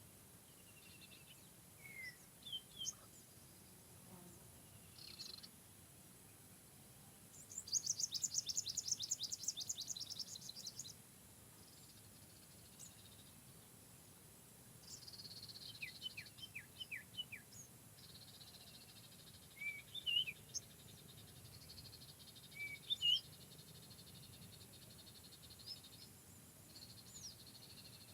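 Several wild birds calling in a forest: scattered short high chirps and whistles, with one rapid trill of many fast notes lasting about three seconds a quarter of the way in. A steady high buzz runs under the calls through much of the second half.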